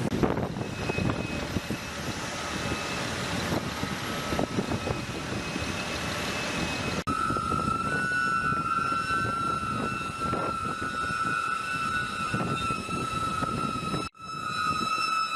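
Heavy vehicle or machinery running, noisy and clattery at first; after a cut about halfway through, a steady high whine rides over the machine noise.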